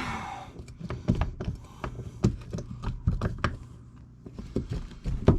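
Irregular light clicks and taps of tools and parts being handled against an aluminum differential case, with one sharper knock near the end, over a faint steady hum.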